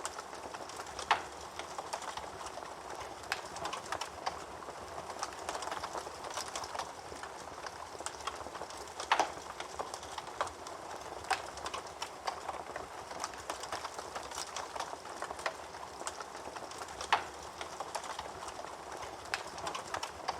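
Wood fire burning in a fireplace: steady soft crackling with frequent small snaps, and three louder pops spaced about eight seconds apart.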